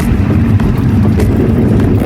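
A vehicle's engine running steadily while under way, a low hum with rumbling road noise.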